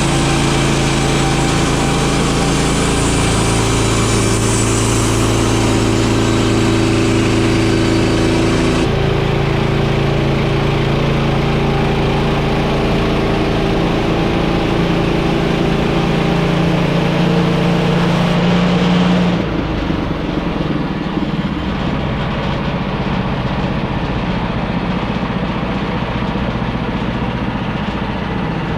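Petrol engine of a Woodland Mills bandsaw mill running steadily while the band blade saws a poplar cant into lumber. The engine note changes abruptly about nine seconds in, and the sound drops somewhat quieter and rougher about two-thirds of the way through.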